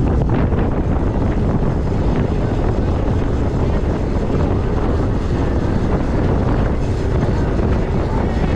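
Steady wind rushing over the microphone of a camera carried on a moving e-bike, heaviest in the low end with no pauses or distinct events.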